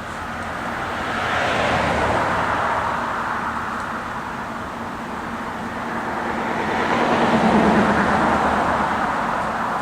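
Two cars passing by one after the other, each swelling up and fading away, the second about six seconds after the first.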